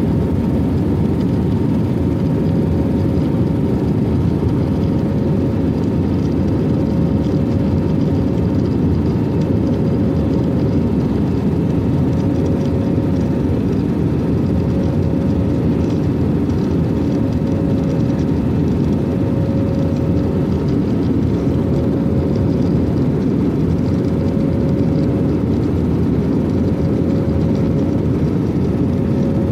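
Airplane engine noise: a steady, loud drone with a thin, steady whine running through it.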